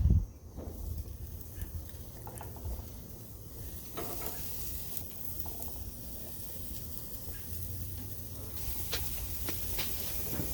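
Food sizzling on a barbecue grill, a steady hiss that grows louder about four seconds in and again near the end, with a thump at the start and a few sharp clicks.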